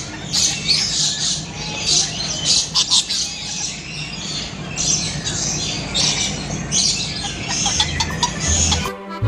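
Many birds squawking and chattering together in an aviary: a dense, continuous stream of short, harsh calls, over a steady low hum.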